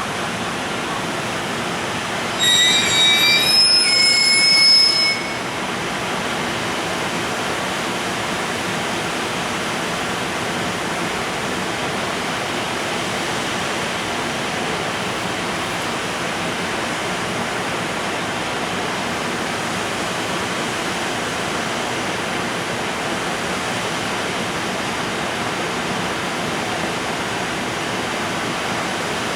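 JR Freight container train hauled by an EF510 electric locomotive rolling out of the station with a steady rumbling rush. About two and a half seconds in, a shrill squeal of several high tones that shift in steps lasts a couple of seconds.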